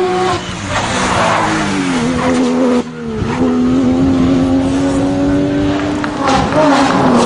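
Porsche 911 GT3 rally car's flat-six engine at high revs. Its note falls, cuts out sharply for an instant about three seconds in, then holds a steady, slowly rising pitch before changing again near the end.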